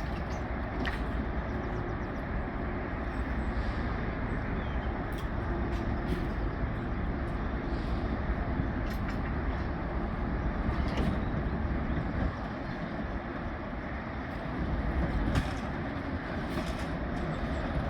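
Railway train running, a steady rumble with a few scattered metallic clanks.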